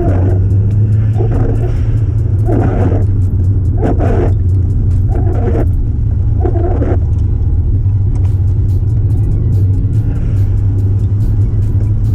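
Steady low engine and road drone of a Subaru Impreza WRX on the move, with music over it that pulses about every second and a bit through the first half.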